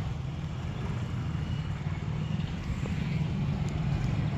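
Steady low engine rumble from vehicles or machinery.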